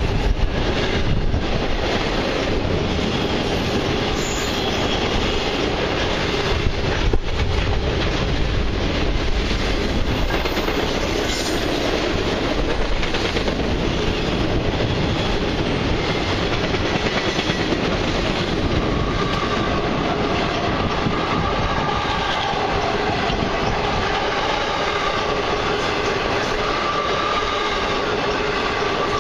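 Long Canadian Pacific intermodal freight train rolling past at steady speed, its wheels clicking over the rail joints. A thin steady wheel squeal joins in over the second half.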